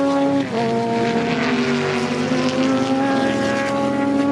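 Historic sports-racing car engine at high revs. The pitch drops at an upshift about half a second in, then climbs slowly as the car accelerates in the next gear and holds near the end.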